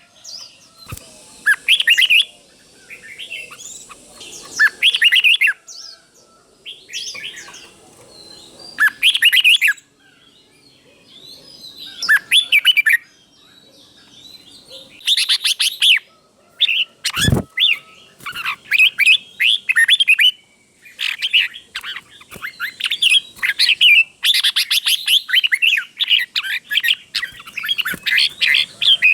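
Red-whiskered bulbul song: short bursts of quick whistled phrases every second or two, coming closer together in the second half. One sharp knock about seventeen seconds in.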